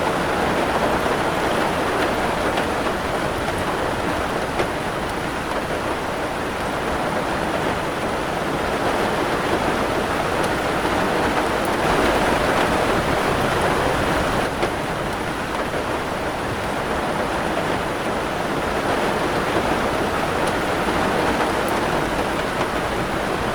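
Steady heavy rain falling, a dense even hiss that swells about halfway through and eases back a couple of seconds later.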